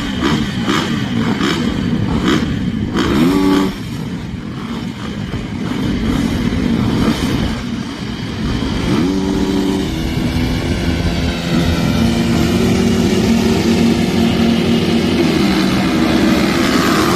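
Several MX2-class motocross bike engines revving hard, the pitch climbing quickly about three seconds in and again near nine seconds, then several engines held high together.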